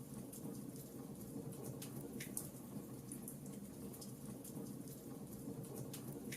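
Wood fire crackling: sharp, irregular pops and snaps over a low, steady rumble.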